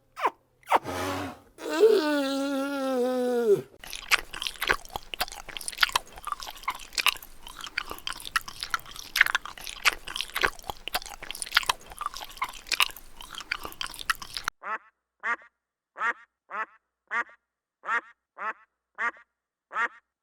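A drawn-out pitched animal call that falls away at its end, then about ten seconds of dense crackling and clicking, then a duck quacking steadily, about two quacks a second.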